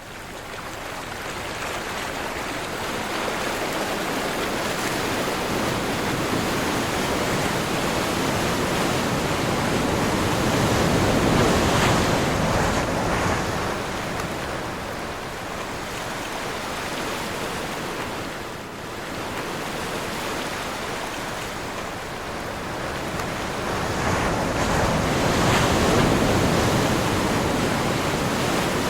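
Sea waves surging and washing in a strong wind, an unbroken rush of water noise that swells to a peak about twelve seconds in and again near the end.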